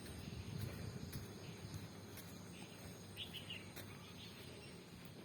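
Faint outdoor morning ambience with a low rumble, and a short run of small bird chirps about three seconds in.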